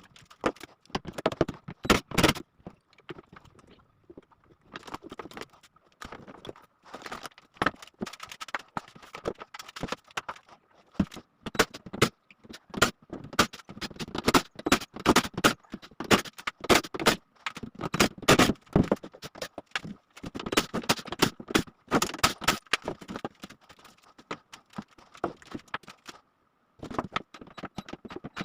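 Irregular knocks, taps and scrapes of hands-on work with wood and metal parts at a workbench, in uneven clusters with a brief pause near the end. A faint steady whine sits underneath.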